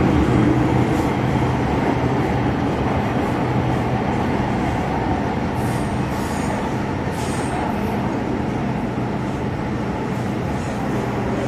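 MTR Kwun Tong Line M-Train, a Metro-Cammell electric multiple unit, running at steady speed with a continuous rumble of wheels on rail and traction equipment. A few brief high wheel squeals come around the middle.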